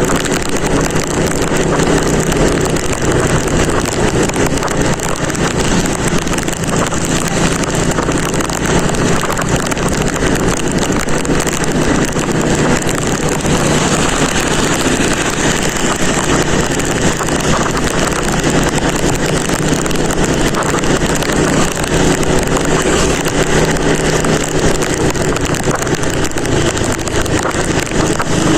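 Motorcycle on the move: a steady rush of wind noise over the rider's microphone, with the engine's low hum underneath.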